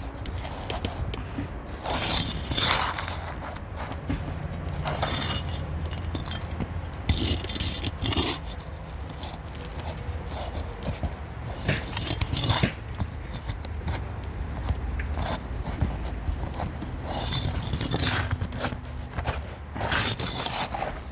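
Asphalt roof shingles being scraped and pried with a metal tool, in irregular strokes with light clinks, to break a shingle free of the adhesive bonding its underside.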